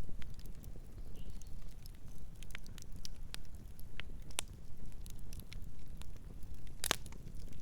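Campfire crackling: irregular sharp snaps and pops of burning wood over a low steady rumble, with one louder pop near the end.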